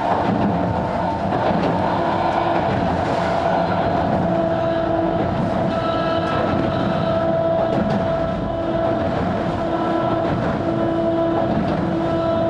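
Sanji Railway 270-series 762 mm narrow-gauge electric train running, heard on board: a steady rumble of wheels on rail with a constant whine over it.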